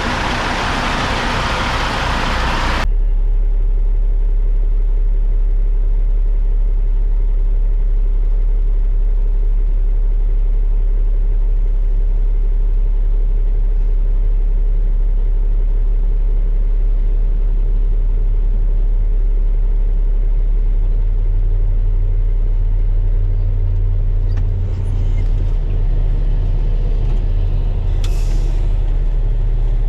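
Heavy diesel truck engine running steadily with a deep low drone. It starts suddenly about three seconds in, after broad loud noise, and gets heavier in its low end in the last third. There is a short hiss-like burst near the end.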